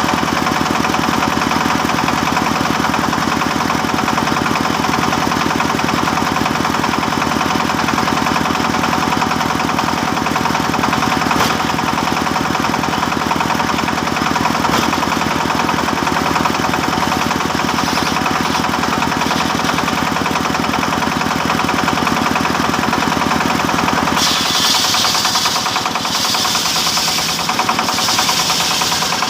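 Sawmill machinery running steadily while sawing teak timber. About 24 seconds in the sound shifts, with a higher hiss coming and going in pulses.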